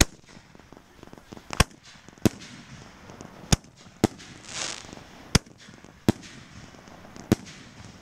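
Consumer aerial firework cake firing a string of sharp bangs, eight in all, about one a second, as shells launch and burst. There is a brief hiss about halfway through.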